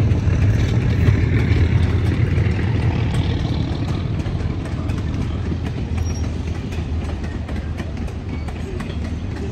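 Durango & Silverton narrow-gauge railroad passenger cars rolling past close by: a steady low rumble with the wheels clicking over the rails, easing off slightly toward the end.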